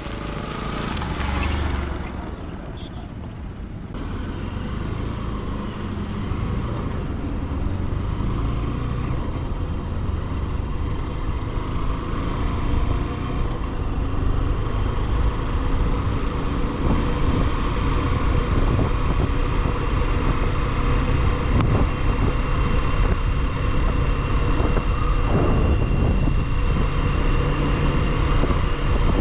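Motorcycle being ridden on the road: the engine runs steadily under a dense rumble of road and wind noise, which grows louder after a sudden change about four seconds in.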